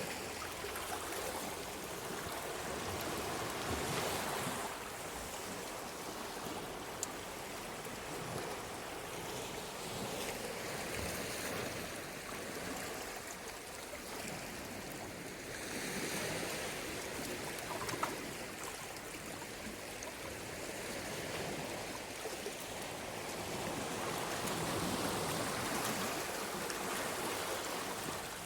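Sea waves washing ashore, a continuous rush that swells and ebbs every several seconds, with two brief clicks.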